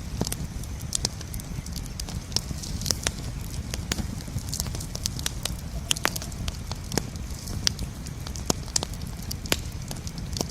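Wood campfire burning, with frequent irregular sharp crackles and pops over a steady low rumble of the flames.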